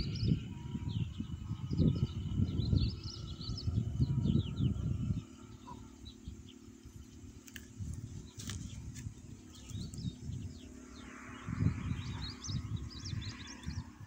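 Small birds chirping and twittering in quick, short calls, busiest in the first five seconds and again near the end. A low rumble of wind on the microphone comes and goes with them.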